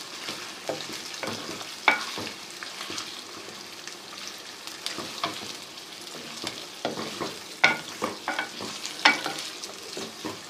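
Liver pieces frying with onions in ghee in a kadhai, sizzling steadily, with several sharp knocks of a spoon against the pan as it is stirred, the loudest about two seconds in and twice near the end.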